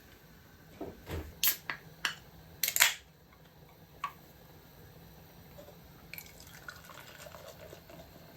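Several short, sharp knocks and clinks, bunched about one to three seconds in, with one more about four seconds in.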